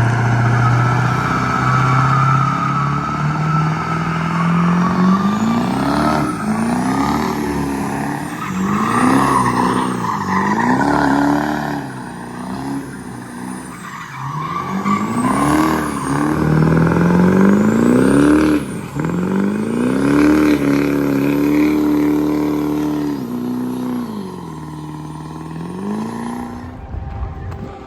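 Engine of a burnout vehicle revved hard. The pitch climbs steadily over the first few seconds, then is revved up and down about once a second, held high for a stretch, and drops away near the end.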